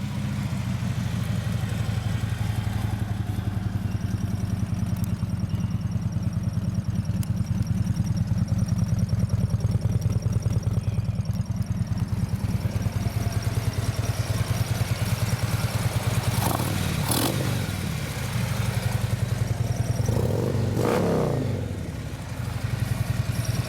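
2016 Harley-Davidson Tri Glide's 103-cubic-inch fuel-injected Twin Cam V-twin idling through slip-on pipes with a steady, even pulse. The throttle is blipped a few times in the last third, the engine revving up and dropping back to idle.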